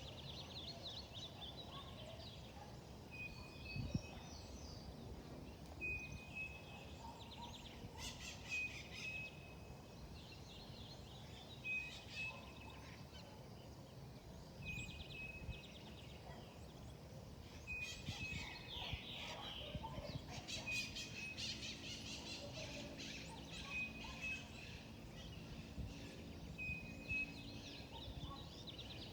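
Wild birds singing and calling: one bird repeats a short, high, steady whistle about every three seconds among quicker chirping phrases from others, over a faint outdoor background. A faint low hum joins in the second half.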